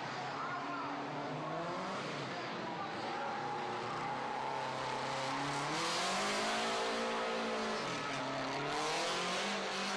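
Racing car engine running, its pitch climbing about four seconds in, holding high, then dropping back about four seconds later, over a steady haze of tyre and road noise.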